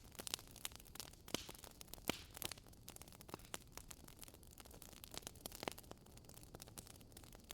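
Wood fire crackling in a fireplace: irregular sharp pops and snaps over a faint hiss, with a few louder pops, about a second and a half in, around two seconds in, and near six seconds.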